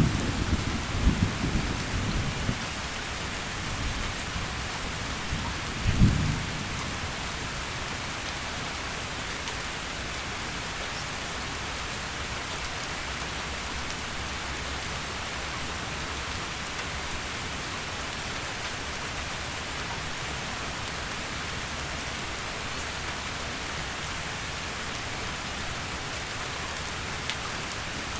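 Steady heavy rain with thunder: a rumble dies away over the first couple of seconds, and a short, louder thunder clap comes about six seconds in. After that, only the even hiss of the downpour.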